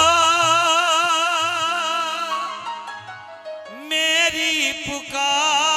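Devotional bhajan singing: a singer holds a long note with a wavering pitch, which fades, then starts the next phrase about four seconds in, over musical accompaniment with low drum beats in the first part.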